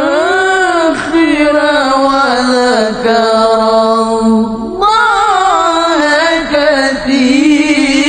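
Male Qur'an reciter (qari) chanting in long melismatic phrases, the voice holding notes and sliding up and down through ornamented runs, with short breaks between phrases.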